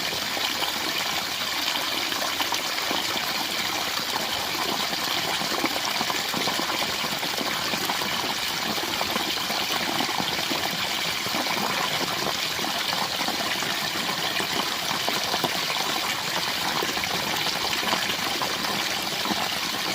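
Small waterfall splashing and gushing steadily, with no change in level.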